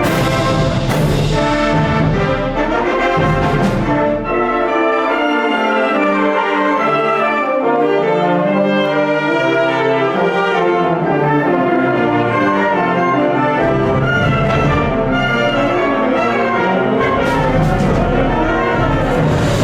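School wind band playing a concert-band piece, with sustained brass chords. Percussion strikes come near the start and again near the end, and the low bass parts drop away for several seconds in the middle before coming back in.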